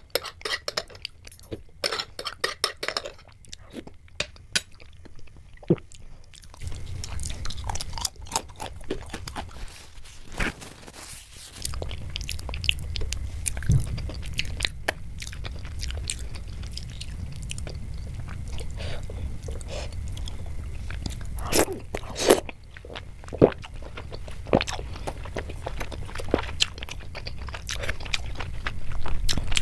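A person chewing and biting Indian sweets close to the microphone, ASMR-style, with many short sharp mouth clicks and crunches. A low steady rumble comes in under the chewing about twelve seconds in.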